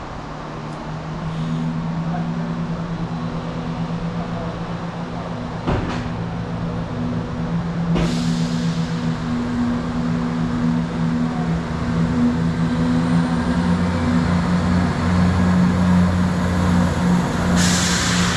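Two-car diesel multiple unit running into the station, its engines giving a steady low drone that grows louder. Two sharp clicks come around a third and halfway through, and a short burst of hissing air comes near the end.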